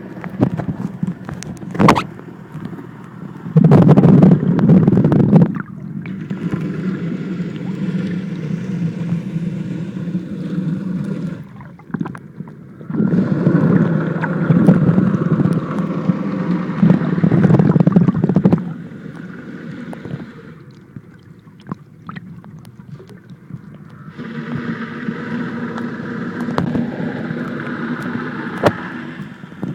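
Muffled underwater sound through a phone sealed in a plastic waterproof pouch: water gurgling and the pouch rubbing, over a low steady hum that swells loud in three stretches.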